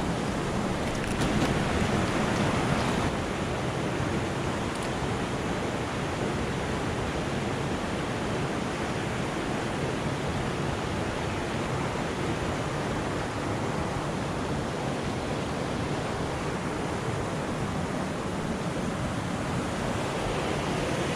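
Steady rushing of river water, an even noise, a little louder for a couple of seconds near the start.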